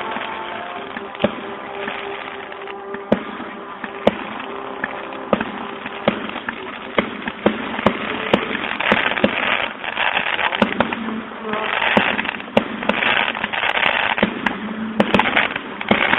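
Aerial fireworks going off: a steady run of sharp bangs from shell bursts, joined from about eight seconds in by repeated bursts of crackling. Heard through a phone's microphone.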